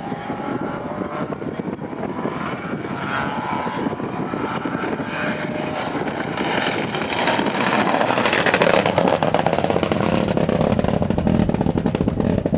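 Rally car engine approaching at speed, revving up and down through the gears and growing louder, loudest about two thirds through.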